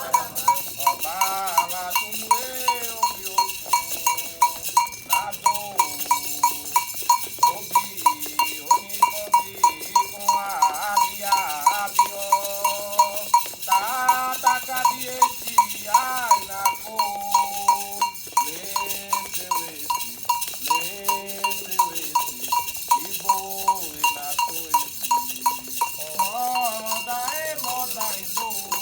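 Candomblé chant for Ayrá, sung by voices over a metal bell struck steadily about twice a second.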